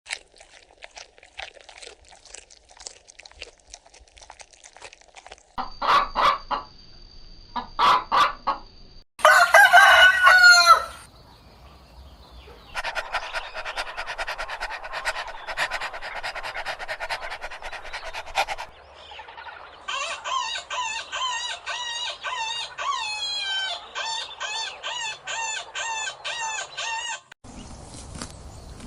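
Chickens: hens clucking in short pulses, a loud rooster crow about nine seconds in, then a flock clucking and calling over one another, ending in repeated calls about four a second.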